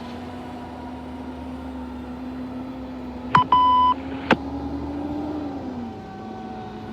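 A short electronic beep, about half a second long with a sharp click before and after it, about halfway through, over a steady low engine hum that sinks in pitch near the end.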